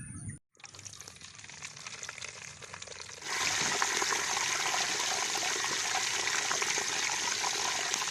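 Banana-leaf-wrapped chicken deep-frying in hot oil: a dense, crackling sizzle that turns clearly louder about three seconds in.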